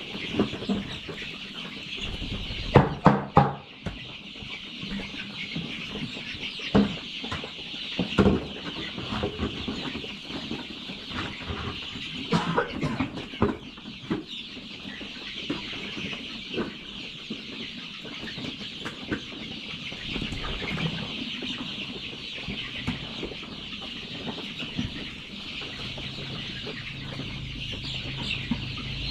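A large flock of chickens clucking and chattering steadily all together. A few sharp knocks and clatters come through now and then, loudest about three seconds in and again around eight seconds.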